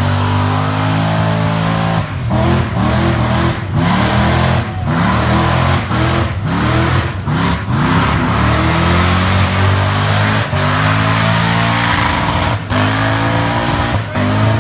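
Burnout car's engine revving hard, its pitch swinging up and down over and over and cutting out for an instant many times, with a steady hiss from the spinning tyres underneath.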